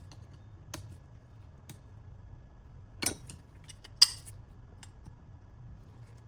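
A handful of separate sharp metallic clicks and clinks, like tools or metal parts being handled. The two loudest come about three and four seconds in.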